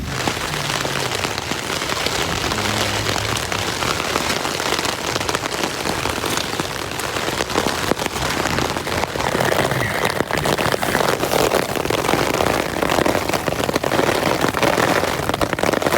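Rain falling hard on ponchos rigged overhead as a shelter: a dense patter of drops that grows louder through the stretch.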